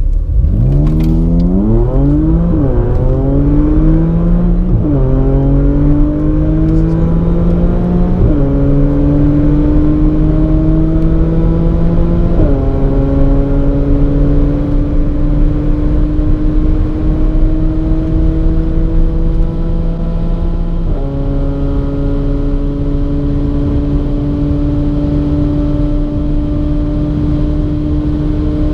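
Audi performance car's engine heard from inside the cabin under full-throttle acceleration from a launch, climbing in pitch through the gears. The pitch drops suddenly at each of about five upshifts, and each climb in the higher gears is longer and slower.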